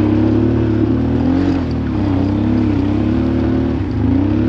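Honda Transalp motorcycle engine revving under load, its pitch rising and falling repeatedly as it labours up a loose gravel incline. The clutch is slipping, so the revs surge without the bike gaining much speed.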